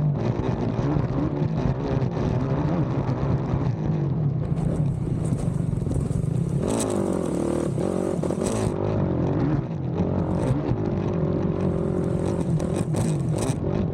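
Race ATV engine heard on board at full race pace, its pitch shifting and rising about halfway through and again near the end as the throttle and gears change, with clattering from the machine over rough ground.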